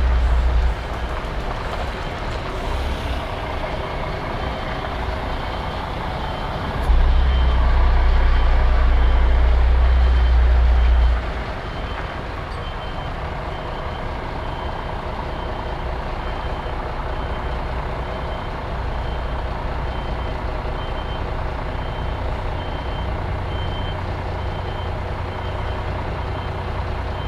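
HGV truck's reversing alarm giving evenly spaced high beeps over the diesel engine's rumble as the lorry backs up. The engine grows much louder for a few seconds about a third of the way in.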